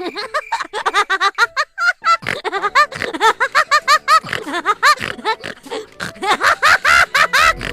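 Cartoon soundtrack: a rapid run of short, high-pitched squeaky notes over music.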